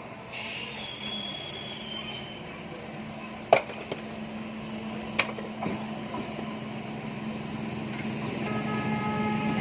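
A local train approaching on the line: a steady hum that slowly grows louder, with high-pitched wheel squeal near the start and again near the end. Two sharp knocks stand out, about three and a half and five seconds in.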